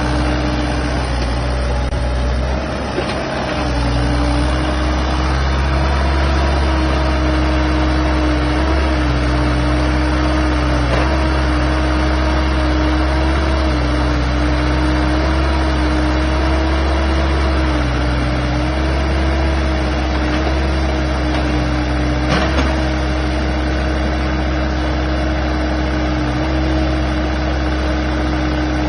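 Kubota mini excavator running steadily for a test of its repaired hydraulic pump, a steady tone with slight wobbles riding over the engine. A brief dip comes about three seconds in, and a single knock about 22 seconds in.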